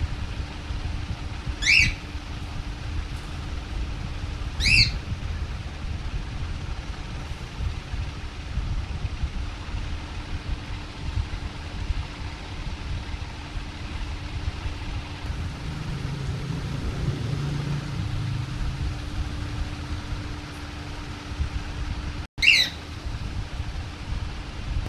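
Young pet parrot squawking: three short, shrill calls, two in the first five seconds and one near the end, over a steady low hum.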